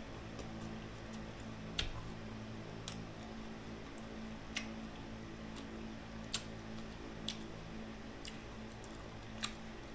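Chewing crisp unripe green mango slices: a handful of short, sharp crunches and mouth clicks spaced a second or two apart, over a steady low hum.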